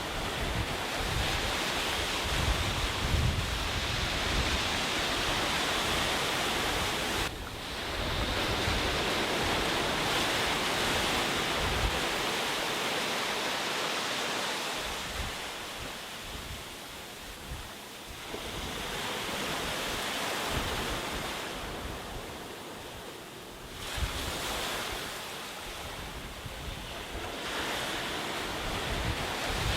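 Sea waves breaking and washing up a beach, the surf swelling and easing every few seconds with a quieter lull midway. Wind buffets the microphone with a low rumble.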